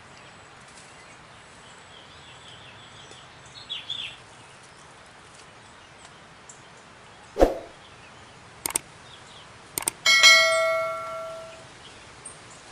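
A single sharp air-rifle shot a little past halfway, then two sharp clicks, then a bright metallic ring that fades out over about a second and a half. Faint bird calls come earlier.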